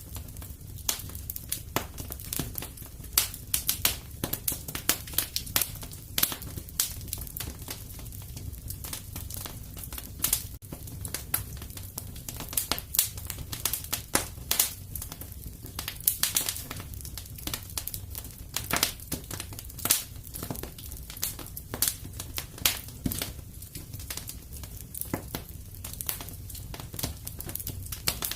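A fire crackling in a fireplace: irregular sharp pops and snaps, several a second, over a low steady rumble.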